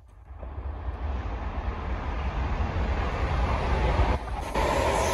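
An approaching train's rumble, growing louder within the first second and then staying loud, with a short dip about four seconds in.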